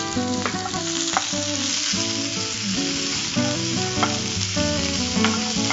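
Chopped onions and green chillies sizzling in hot oil in a nonstick frying pan, stirred with a wooden spatula, with a few short knocks of the spatula against the pan. This is the onions being sautéed for the tempering.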